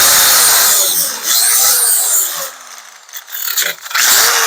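Power grinder grinding the sheet metal of a truck bed in short bursts, several times over, each burst ending with the motor winding down in a falling whine.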